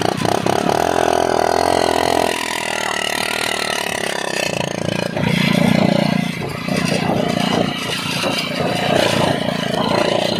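Hero HF Deluxe's single-cylinder engine running, its exhaust passed through an empty drink can taped onto the silencer tip. The engine note shifts a couple of times.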